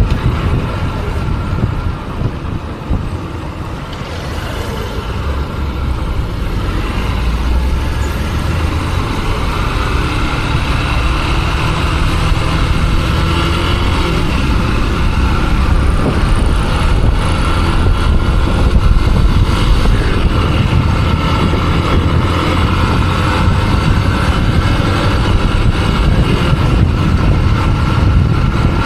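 Motorcycle running on the road, with engine and road noise throughout. It dips briefly a couple of seconds in, then grows louder and holds steady through the second half.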